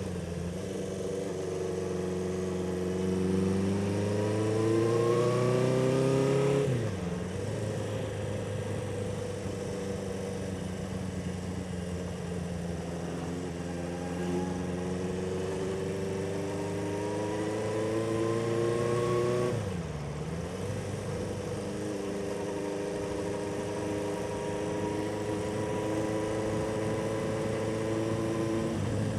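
1976 Honda CB400F's air-cooled four-cylinder engine under way, revs climbing steadily then dropping sharply at a gear change about seven seconds in; it pulls up again and shifts a second time near twenty seconds, then runs at steady cruising revs.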